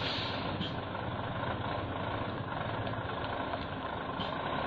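Cargo truck engine running steadily at low revs, with a few short hisses over it.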